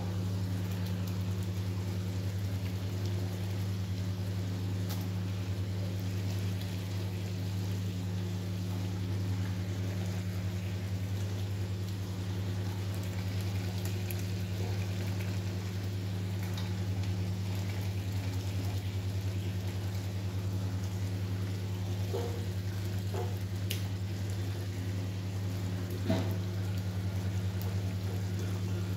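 Bhuna masala sizzling and bubbling in a kadai as raw chicken pieces go in, over a steady low hum. There are a couple of light knocks in the second half.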